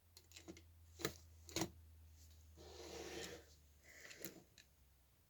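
Faint handling noises from a scale model truck as its cab is tilted forward: a few small clicks and a soft rubbing scrape, over a faint steady low hum.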